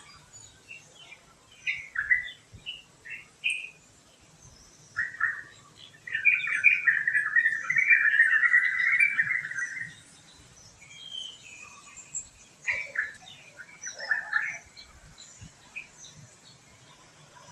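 Wild birds chirping and calling in short, scattered notes, with one loud, dense run of rapid chattering calls from about six to ten seconds in.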